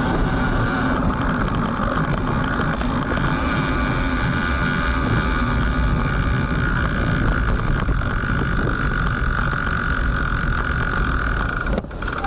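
Wind rumbling on a bicycle-mounted action camera's built-in microphone during a ride in rain and strong wind, mixed with steady road and traffic noise. The noise drops off sharply near the end.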